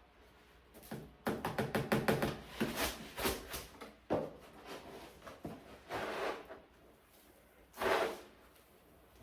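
Cat litter being scooped and sifted in a plastic litter box: a run of rapid rattling clicks, then a few shorter scrapes.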